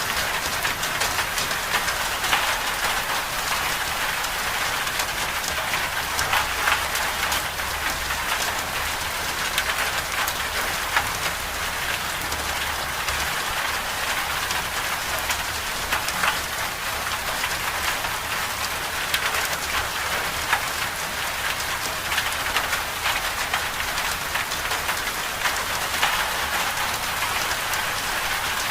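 Steady medium rain falling on a surface, a dense, even patter of drops with a faint low rumble underneath.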